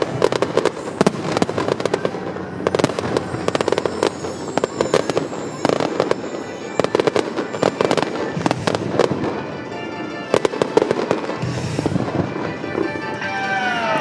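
A fireworks finale: dense volleys of crackling pops and bangs coming in rapid clusters, with the show's music playing under them.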